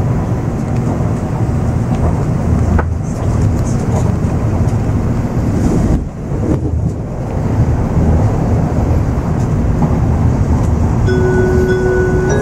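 Cabin noise of an N700 series Shinkansen pulling out of the station: a steady running rumble from the wheels and drive, with a brief drop in level about six seconds in. Near the end, the onboard chime melody begins over the public-address speakers.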